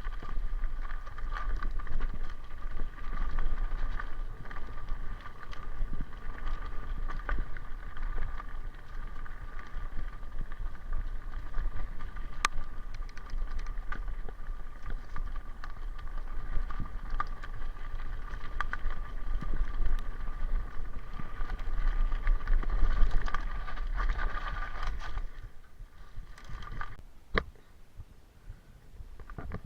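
Mountain bike ridden along a dirt trail: a steady rumble of tyres and wind on the microphone with scattered clicks and rattles, dropping much quieter near the end.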